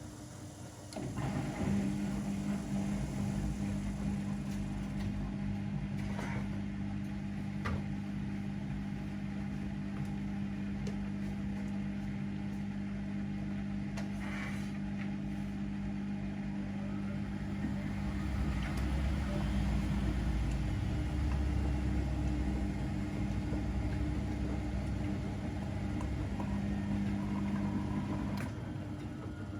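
A laundry machine's motor running with a steady hum. It starts about a second in, takes on a deeper rumble in the second half, and stops shortly before the end.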